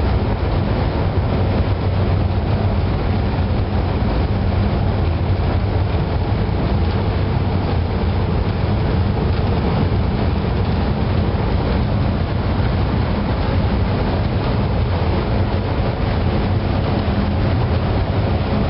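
Steady, loud drone of diesel machinery in a ship's engine room, including the MaK 8M32 eight-cylinder medium-speed main engine running under load with the shaft generator engaged. There is a constant low hum with no change in pace.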